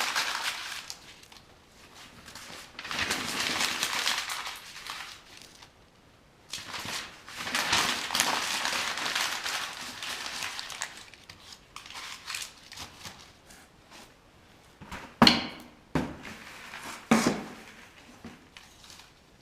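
Crinkling, rustling noise in two long stretches, then a few sharp knocks near the end, the first one the loudest.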